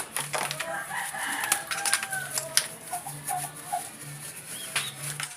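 Rooster crowing: one long drawn call from about half a second to two seconds in, over scattered sharp clicks and knocks.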